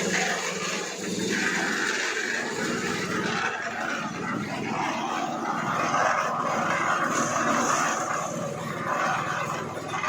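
Concrete mixer running steadily.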